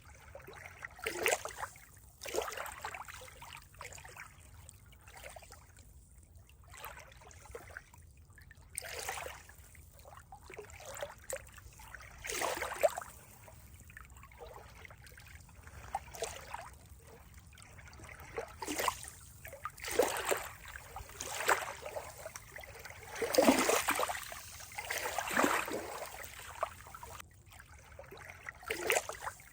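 Water trickling and splashing in uneven surges, with the loudest stretch a little past the middle.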